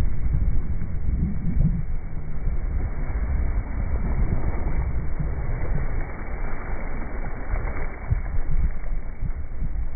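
Wind rumbling and buffeting on the microphone of a Laser dinghy sailing upwind, with a rush of water along the hull, louder about halfway through.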